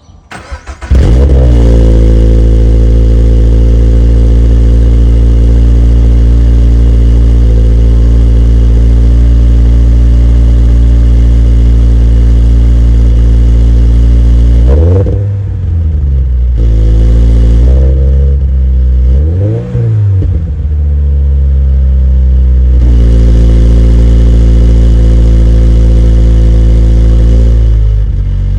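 Toyota GR86's 2.4-litre flat-four starting cold through a TRD cat-back exhaust: a brief crank, the engine catching about a second in and settling into a steady, loud fast idle. About halfway through the engine speed dips and swings a few times, with one short rev up and back down, then it returns to a steady idle.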